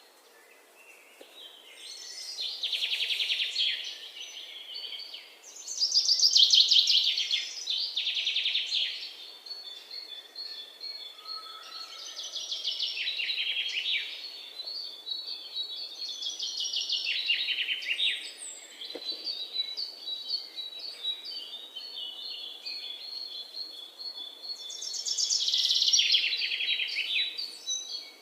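Small birds chirping and singing: loud bursts of fast, rapidly repeated high notes every few seconds, with a steady run of high, evenly spaced pips between them.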